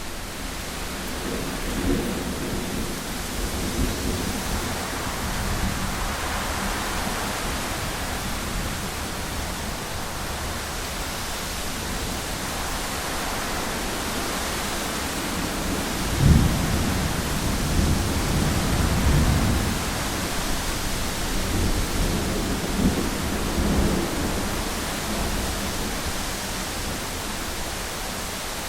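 Heavy rain falling steadily on a window, with thunder: low rumbles in the first few seconds, then a sharp clap about 16 seconds in that rolls on for several seconds.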